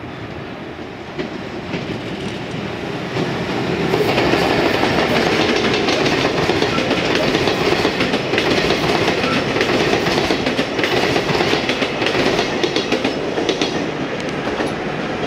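Container freight train hauled by an EF210 electric locomotive passing close by, wagon wheels clattering rapidly over the rail joints. It grows louder over the first few seconds as the train nears, holds loud while the container wagons run past, and eases slightly near the end.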